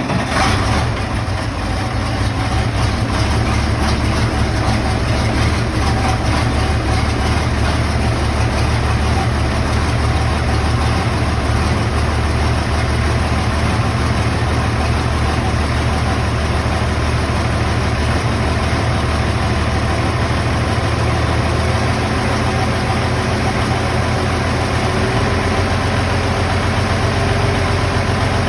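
International 986 tractor's turbocharged six-cylinder diesel idling steadily on a cold start, having just caught. Its low note shifts slightly about three quarters of the way through.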